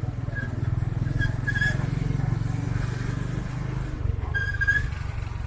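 A motor vehicle's engine running with a steady low rumble, with a few short, high chirps over it.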